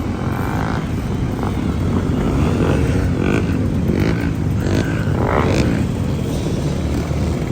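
Several motorcycles riding past in a group, their engines running with revs rising and falling.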